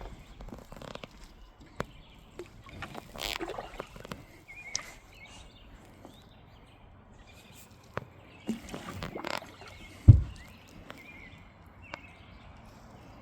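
Kayak paddle strokes splashing and dripping in the water, in two short bursts with scattered drips and clicks between. One loud low knock about ten seconds in.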